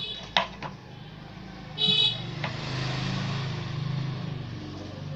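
A few sharp clicks, then a short, high-pitched vehicle horn toot about two seconds in, followed by the rising and fading noise of a vehicle passing, over a steady low hum.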